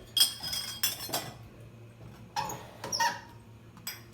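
Cups and dishes being handled in a dishwasher rack: a series of short knocks and clinks, a few of them ringing briefly.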